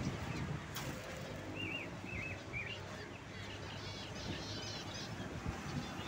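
Small cage birds chirping: a few short wavy chirps, then a quicker run of higher chirps about halfway through, over a steady low background noise.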